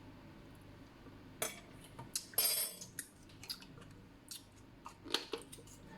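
Utensils clicking and scraping against dishes: a run of short, irregular clicks with one longer scrape about two and a half seconds in.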